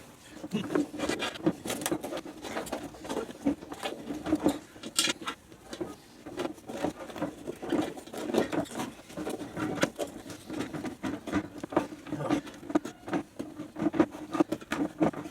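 Hands working a motorcycle inner tube into its tyre: a busy run of irregular rubbing and scraping of rubber with many small clicks.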